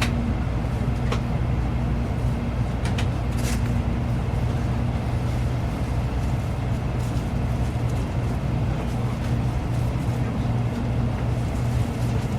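Steady interior rumble and hum of a Shinkansen passenger car, with a low droning tone that fades in and out and a few faint ticks in the first four seconds.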